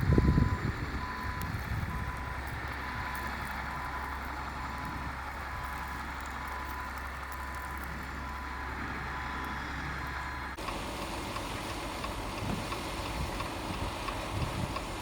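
Vehicle backup alarm beeping, a single high tone repeating a little more than once a second over a steady low engine hum. Both stop abruptly about ten seconds in, replaced by a rougher, noisier outdoor rumble.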